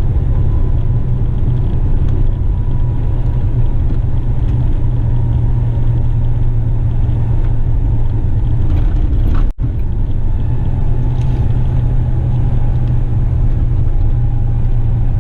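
Western Star tipper truck on the move: a steady low engine and road drone. The sound cuts out for a moment about nine and a half seconds in.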